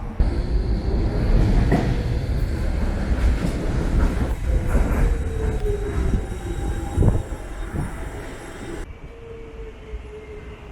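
Docklands Light Railway train running on its rails: a steady low rumble with several sharp knocks from the wheels, and a motor whine that falls in pitch. It gets quieter near the end.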